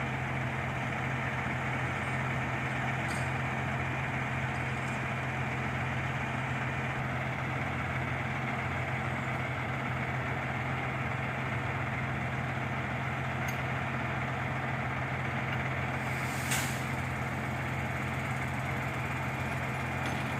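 Shingle delivery truck's engine idling steadily, with a brief sharp hiss or clank about sixteen seconds in.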